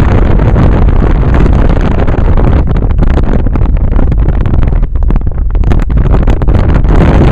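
Loud wind buffeting the microphone of a camera held at a car window while driving, with the rumble of the moving car underneath.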